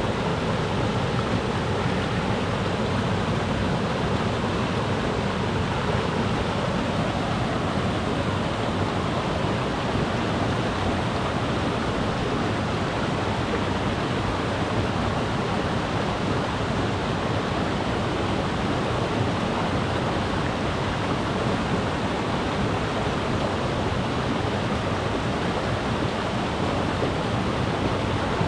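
Mountain river rushing over rocks in a steady, even roar of water.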